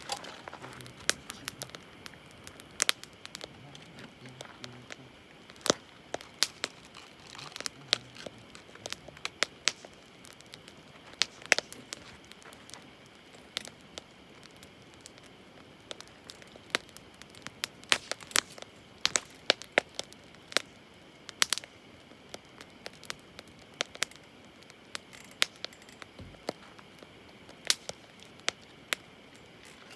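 Wood campfire crackling, with many sharp irregular pops and snaps over a faint steady hiss.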